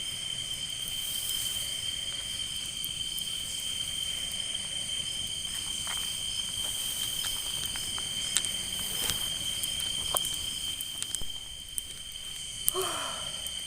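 Chorus of crickets and other night insects, a steady high-pitched trill, with a few light clicks and knocks scattered through it.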